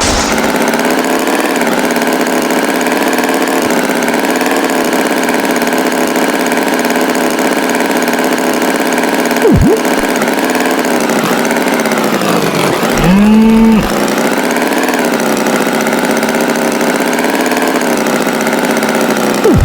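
Cartoon farm tractor engine running steadily, with a bull mooing once, loudly, a little past the middle. A brief squeak comes shortly before the moo.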